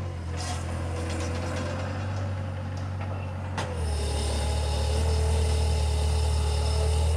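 Bobcat skid-steer loader's engine running steadily with a whine from its hydraulics. There is a sharp click a little past halfway, then the engine gets louder and its pitch shifts.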